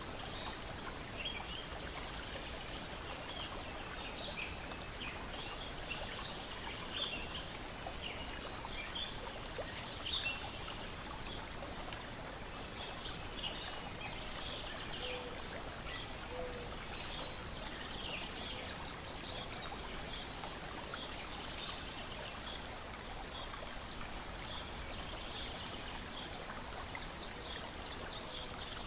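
Steady wash of lake water lapping and splashing, with small birds chirping and singing on and off throughout.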